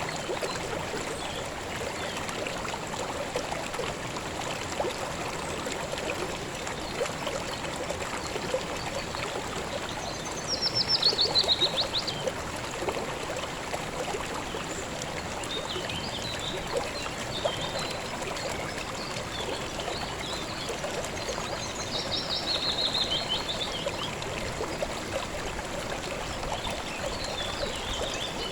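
Calm river water flowing steadily. A small bird sings a fast, descending trill twice, about ten seconds in and again about twenty-two seconds in, with a few short chirps between.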